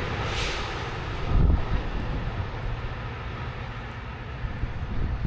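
Metra commuter train rumbling past on the tracks, its noise slowly fading, with a heavy thump about a second and a half in.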